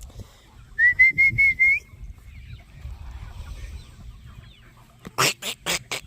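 Farmyard poultry calling: a quick run of five short high chirps about a second in, then a rapid series of harsh clucking calls near the end.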